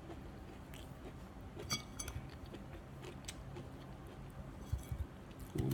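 Quiet chewing with a few faint clicks, then light taps of a small knife cutting into a red onion near the end.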